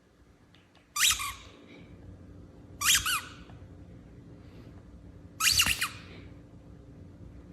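Three short, high-pitched squeaky calls from a small animal, about two seconds apart, over a faint steady hum.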